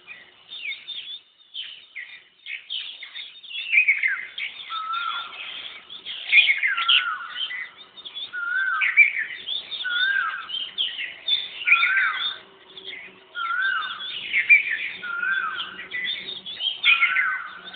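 Birdsong: a short rising-and-falling whistled note repeated a little over a second apart, over a busy jumble of higher chirps. The singer is taken for an Asian koel (koyal).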